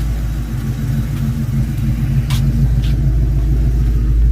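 A Toyota Matrix car engine idling with a steady low rumble, with two light clicks past the middle.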